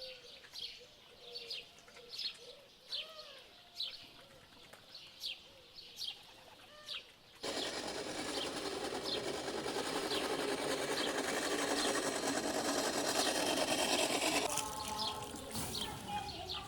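Birds chirping over and over in short falling notes, with some lower calls under them. About seven seconds in, a loud steady rushing noise starts suddenly and covers most of the rest, easing near the end, while the chirping carries on.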